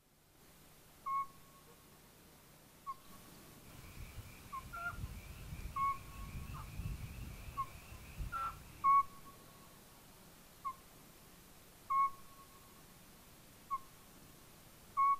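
A bird repeats short, clear whistled notes, about a dozen at uneven intervals. A fainter buzzy trill runs under them in the middle, along with a low rumble and one knock.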